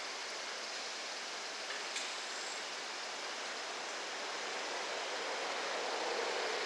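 Steady, even hiss of a freight train hauled by an EF210 electric locomotive rolling slowly past, growing a little louder near the end.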